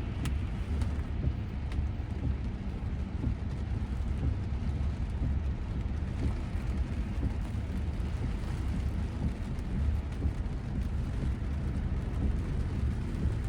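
Inside the cabin of a moving electric Tesla Model Y on a wet road in pouring rain: rain on the car and tyre noise blend into a steady low rumble with a hiss above it. A couple of faint ticks come near the start.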